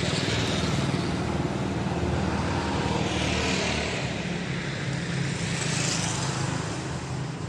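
Honda PCX 160 single-cylinder scooter engine running through a Daytona GP Taper Slash racing exhaust with its silencer insert (dB killer) fitted. The sound is steady and fades a little near the end.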